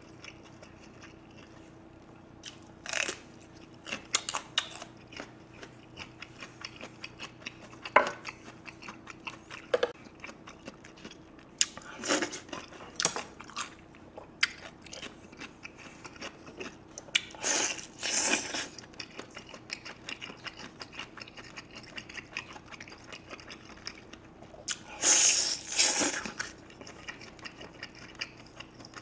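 Close-miked eating: a man biting and chewing beef short rib meat off the bone, with wet mouth sounds coming in irregular bursts, the loudest near the end. A thin plastic glove crinkles as it is pulled on near the start.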